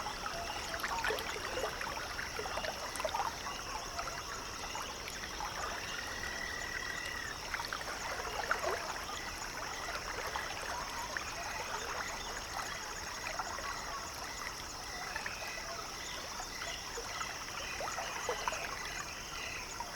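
Lakeside evening ambience: water trickling and lapping, a steady high-pitched chorus, and frogs giving a few drawn-out trilled calls, with a run of shorter calls near the end.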